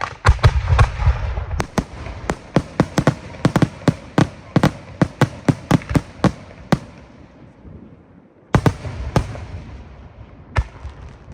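Fireworks display: a rapid volley of sharp bangs, several a second, for about seven seconds, then a short lull, a loud burst about eight and a half seconds in, and a few scattered bangs near the end.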